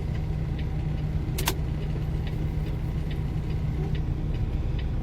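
Semi truck's diesel engine running at low speed, heard inside the cab while backing, with light ticks every half second or so and one sharper double click about a second and a half in.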